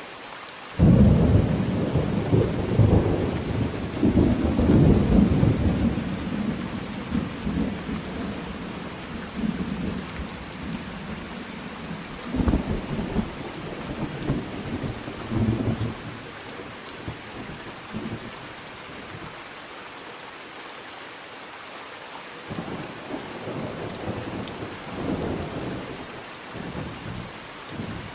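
Steady rain in a thunderstorm. About a second in, thunder breaks suddenly and rolls on as a long low rumble that slowly fades. Two weaker rolls of thunder follow, one in the middle and one near the end.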